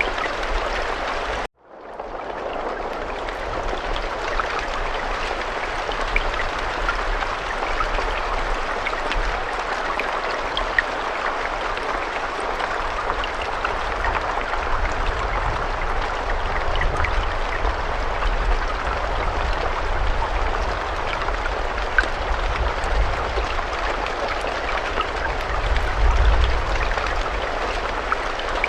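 Steady rain falling, a dense even hiss with scattered faint drop ticks and a low rumble underneath. About a second and a half in it cuts out completely for a moment, then fades back up.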